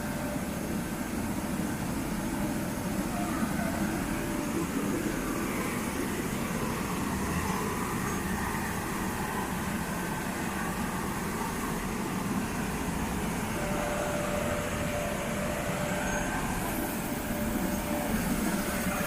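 Helicopter turbine and rotor running steadily.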